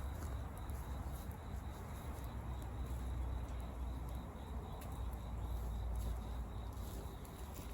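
Wood campfire crackling faintly, in scattered small ticks over a low steady rumble, with a thin steady high tone throughout.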